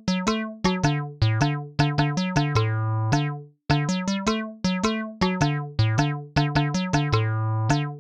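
Background music: a bouncy electric-piano or synth keyboard tune of short, sharply struck notes, with a brief break about three and a half seconds in.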